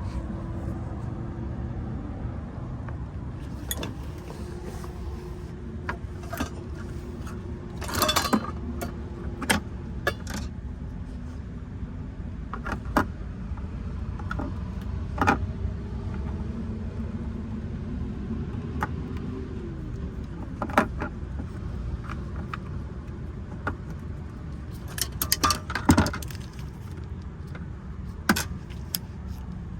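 Scattered metallic clinks and jangles, in a few short clusters, over a steady low rumble.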